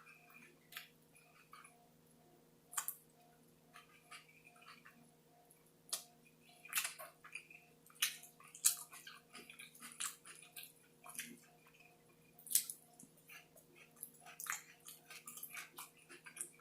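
A person chewing food close to the microphone, with irregular mouth clicks and smacks.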